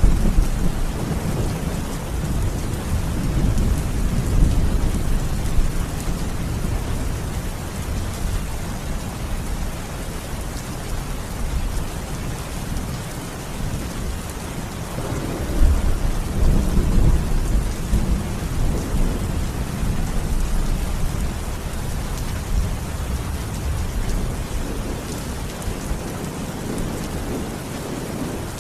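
Steady rain falling with rolling thunder rumbling underneath, the rumble swelling at the start and again about halfway through before easing off toward the end.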